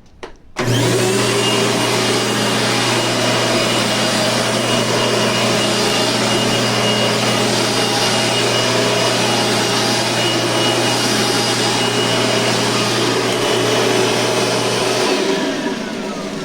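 Dirt Devil Featherlight vacuum cleaner's 10-amp motor switched on about half a second in and comes up to speed with a rising whine. It runs steadily, then is switched off near the end and winds down with a falling whine.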